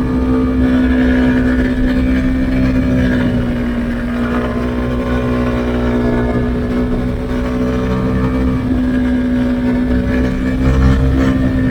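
Husqvarna Svartpilen 401's single-cylinder engine through an Akrapovic exhaust with the dB-killer removed, running under way at nearly steady revs.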